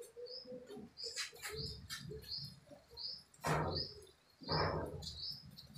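A small bird chirping over and over, about two to three short high chirps a second. Two louder rushing noises come about a second apart, a little past halfway through.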